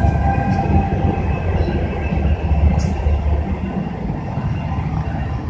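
Train rolling past, a steady low rumble of wheels on rails with a sharp click about three seconds in, slowly getting quieter.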